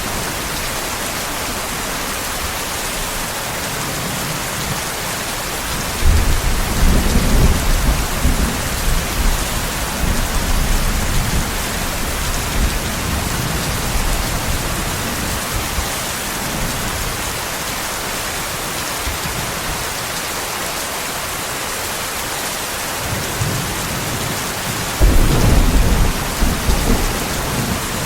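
Steady rain hissing, with two rumbles of thunder, one starting about six seconds in and a shorter, sharper one near the end, each rolling on for a few seconds.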